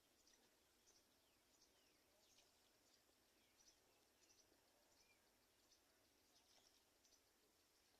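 Faint, high-pitched bird chirps, many short calls at irregular intervals with a few brief falling notes, over a low hiss of near silence.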